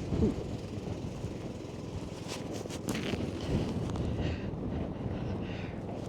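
Strong wind buffeting the microphone, a steady low noise with a few faint knocks in the middle.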